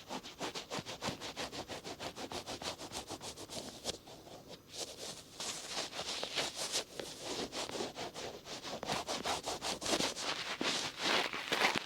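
Cotton swab rubbing and scratching over the outer ear close to the microphone, in quick repeated strokes several a second, briefly lighter about a third of the way in.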